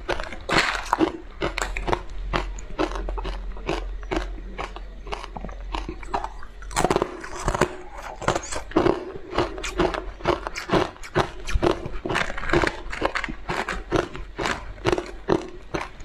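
Close-up eating sounds of a person biting and chewing brittle frozen shards, likely ice, with rapid crisp crunches several times a second.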